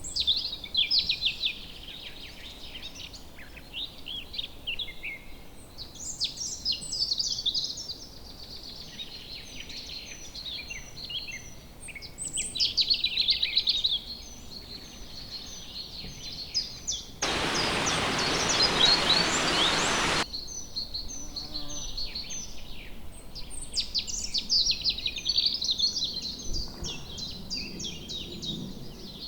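Songbirds singing and chirping in quick, high-pitched phrases. About seventeen seconds in, a steady rushing noise cuts in suddenly, lasts about three seconds and cuts out just as suddenly.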